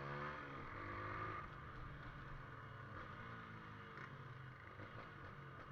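Motorcycle engine running, its pitch dropping over the first second as it comes off the throttle, then holding fairly steady.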